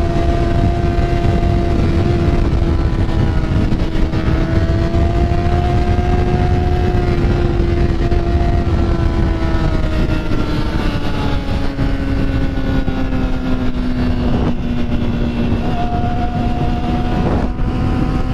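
Motorcycle engine running at a steady cruise under heavy wind rush on the microphone. Its note holds for the first half, then eases gradually lower as the bike slows.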